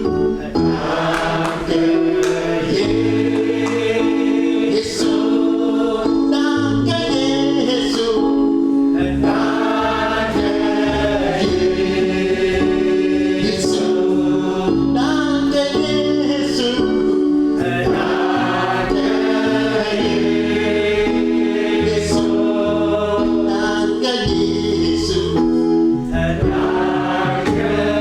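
Gospel choir singing over an instrumental backing of held chords and a bass line.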